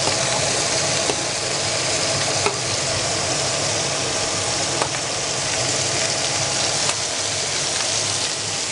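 Meatballs sizzling steadily in butter in a frying pan, with a few faint clicks.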